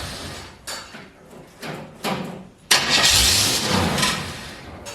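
4-litre Chevrolet straight-six firing and dying: it runs down from a burst of running, gives a few weak coughs, then about three seconds in catches again loudly and fades away over a couple of seconds. It runs only with the key held in start and dies in the run position, which the owner takes for a faulty ignition coil resistor.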